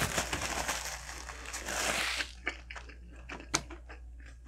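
Close-miked chewing of a Big Mac with quarter-pounder patties: a dense crackling stretch for about the first two seconds, then separate mouth clicks.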